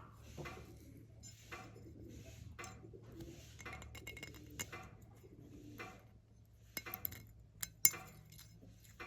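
Metal tools and parts clinking and knocking against each other as they are handled, in irregular short strikes with a few sharper clanks about seven to eight seconds in, over a steady low hum.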